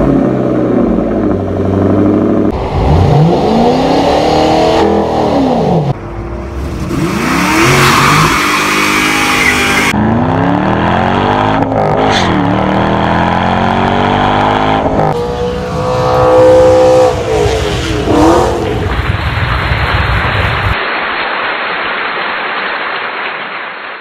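A montage of car engine clips cut together: engines revving up and dropping back, several short clips in a row, ending in a few seconds of steady rushing noise.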